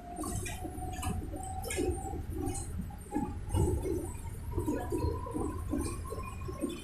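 Inside a moving electric bus: a steady low road rumble with a thin electric-motor whine that steps up in pitch and holds, over irregular rattles and light clicks.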